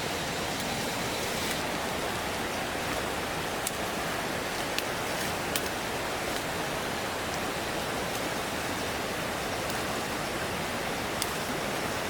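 Steady rushing noise with a few faint, sharp clicks.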